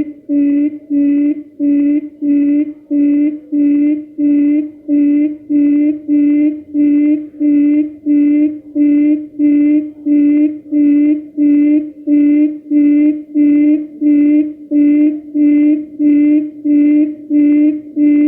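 Quail lure call played back in a loop for trapping: a low hooting note repeated steadily about twice a second, each with a fainter high chirp on top.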